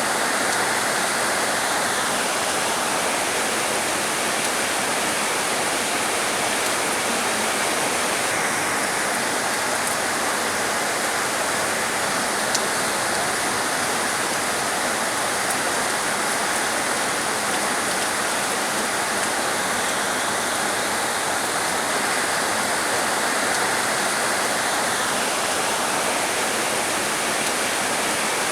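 Heavy rain pouring down steadily in a dense, unbroken hiss.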